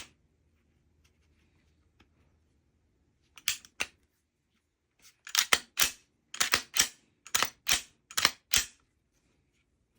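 Sharp metallic clicks from a Glock 19 Gen 5 pistol being worked by hand just after reassembly: two clicks about three and a half seconds in, then about a dozen more in quick groups over the next few seconds.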